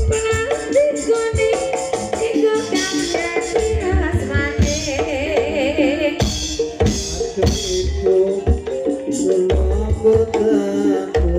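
Banyumasan gamelan music accompanying an ebeg dance: hand drums beating a steady rhythm under sustained pitched notes, with a wavering melody line about halfway through.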